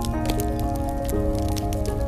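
Wood fire crackling with frequent sharp pops and a low steady rumble, under soft, slow piano notes that are held and changed every second or so.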